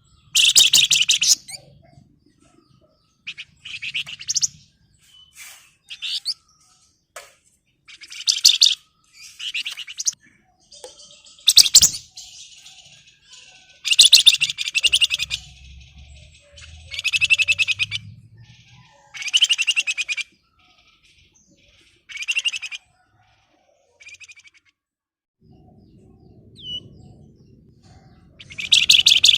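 Flamboyan songbird singing in dense, rapid chattering trills, the song typical of a bird in full voice: about a dozen high bursts, each up to a second or so long, separated by short pauses.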